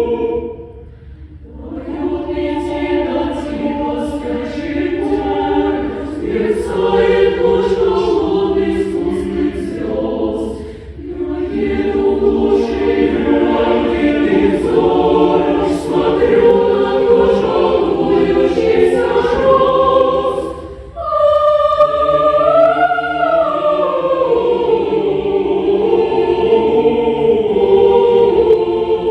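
Choir singing a cappella in close harmony, sung phrases parted by short breaths near 1, 11 and 21 seconds in; a higher solo-like line rises and falls over the chord about 22 seconds in.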